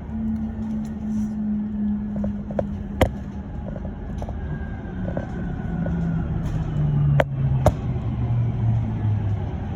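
Electric bus traction motor whining inside the cabin, the whine falling steadily in pitch as the bus slows, over the low rumble of the ride. A few sharp knocks or rattles sound, one about three seconds in and two close together later on.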